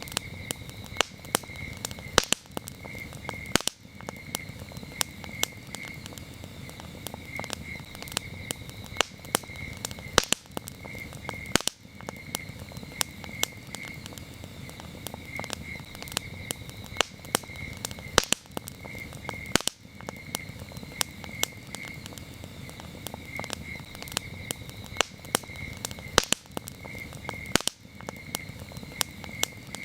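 Wood campfire crackling, with frequent sharp pops over a low, steady rush of burning. Crickets chirp in steady, rapid pulses behind it.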